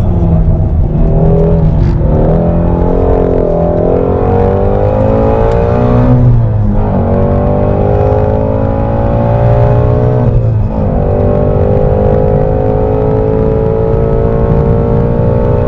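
Ford Mustang Shelby GT350R's 5.2-litre flat-plane-crank V8 heard from inside the cabin, driven hard on a track. Its pitch climbs and falls, and the engine note changes abruptly twice, about six and ten and a half seconds in.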